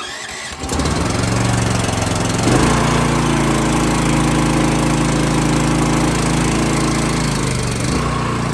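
Powerease 420 cc single-cylinder engine on a pressure washer electric-started cold with the choke on: a click, a moment of cranking, then it catches within about a second. It rises in speed about two and a half seconds in and runs steadily, then its speed sags near the end as it begins to falter, which the operator takes as a sign the choke needed to stay on longer.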